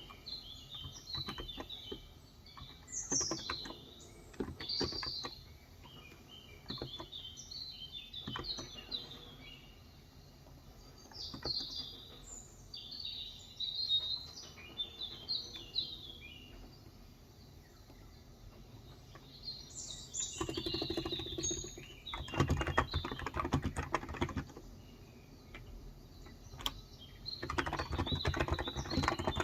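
Typing on a Cox Endeavor electrocapacitive 35g tenkeyless keyboard: scattered keystrokes at first, then fast runs of typing in the second half. Birds chirp throughout.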